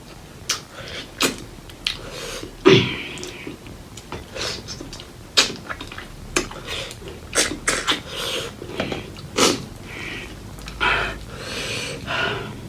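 Close-miked mouth sounds of eating pork leg curry with rice: wet smacks and chewing in irregular, sharp clicks with short noisy bursts, the loudest a few seconds in.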